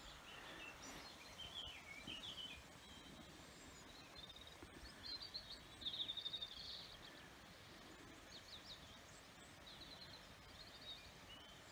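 Small birds chirping and trilling at intervals, with a quick run of chirps about halfway through, over a faint steady rush of running water.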